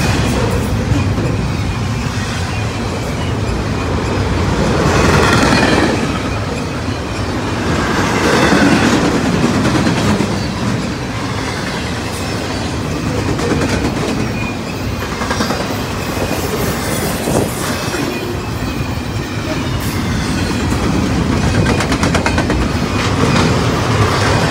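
Double-stack container cars of a fast CSX intermodal freight train rolling past: a continuous rumble and rattle of steel wheels on the rails, swelling louder a couple of times as cars go by.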